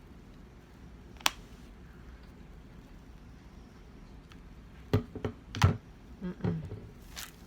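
Handling knocks and clicks: one sharp click about a second in, then a short run of knocks and taps near the end.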